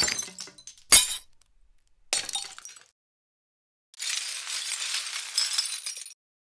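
Glass breaking: three separate smashes about a second apart, each with a short tinkling tail, the second the loudest. After a pause comes about two seconds of continuous crashing, tinkling glass, then it cuts off.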